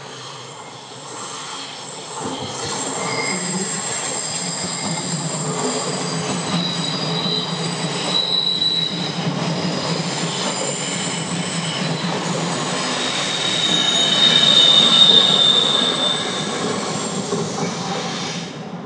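Train running through a station, its wheels squealing on the rails over a low rolling rumble. Several high-pitched squeal tones come and go, loudest about three-quarters of the way through.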